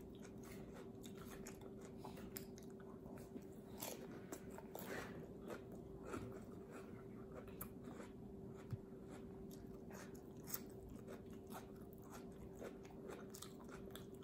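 Faint close-up chewing of raw cucumber spread with peanut butter: soft crunches and wet mouth clicks scattered throughout, over a steady low hum.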